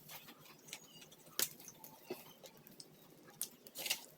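Close-up eating of boiled corn on the cob: short crisp clicks and wet snaps of kernels being bitten off the cob and chewed, the sharpest about one and a half seconds in and two more near the end.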